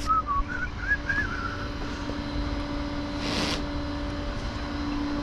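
A vehicle engine running steadily with a low, even hum. A short run of high whistled chirps in the first second or so, and a brief hiss about three seconds in.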